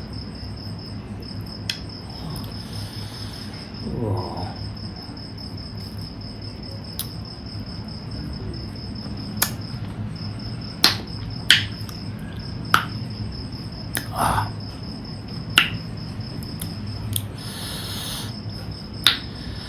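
Mouth sounds of eating chicken feet with rice: scattered sharp smacks and clicks, about ten of them, a little over once a second in the second half. A cricket trills steadily and high-pitched behind them.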